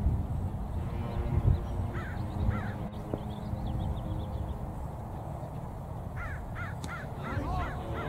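A bird calling in short calls, each rising then falling in pitch: two about two seconds in, then a quick even run of about eight from about six seconds in, over a steady low outdoor rumble.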